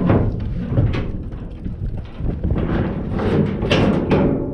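Knocks and clatter from a bull moving in a metal livestock trailer, several sharp bangs over a steady rumble of wind on the microphone.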